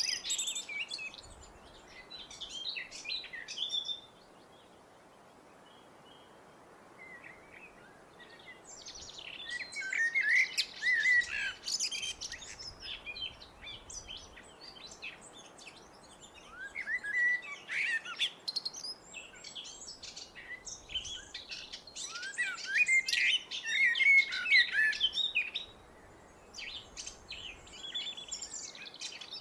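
Blackbird singing: short phrases of warbled notes breaking into high twittering, repeated with pauses of a few seconds between them, over faint steady background noise.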